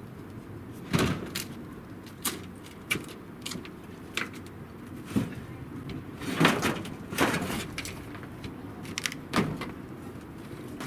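Terracotta roof tiles clinking and knocking against each other as they are handled, about ten irregular sharp knocks with a steady low hum beneath.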